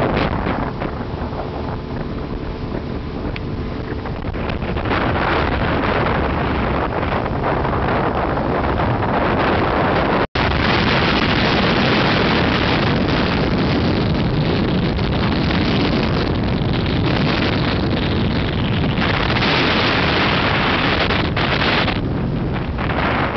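A vehicle engine running under way, mostly covered by heavy wind buffeting on the microphone. The sound drops out for an instant about ten seconds in.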